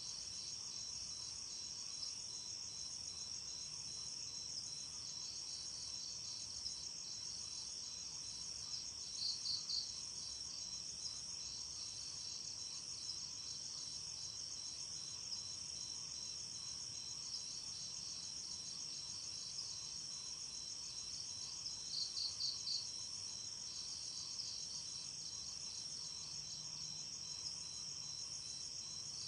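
Night insects, crickets among them, chirping in a steady high-pitched chorus of rapid pulses. Twice a louder short run of three or four quick chirps stands out, about a third of the way in and again near three-quarters.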